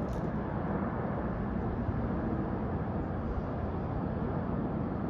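Steady low rumble of a Boeing 777-300ER's GE90 jet engines, with a short high hiss right at the start.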